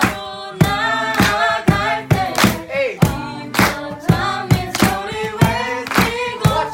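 A mixed group of voices singing a praise song, with a sharp beat about every 0.6 seconds keeping time.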